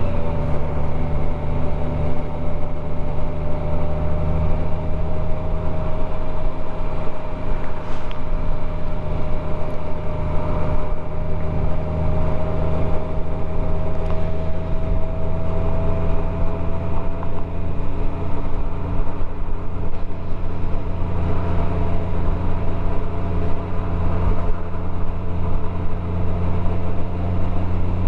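Motorcycle engine running while riding, with a steady low drone and a thin whine that dips at the start and then rises slowly in pitch.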